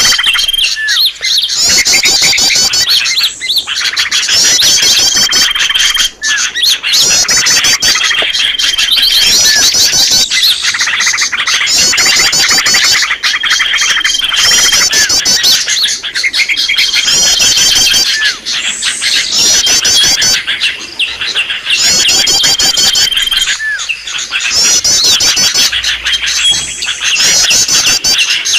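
Bird-lure recording of many small songbirds calling at once: dense, loud, high chirping and twittering, with a held high whistle and short rising notes coming back every two to three seconds as the recording loops.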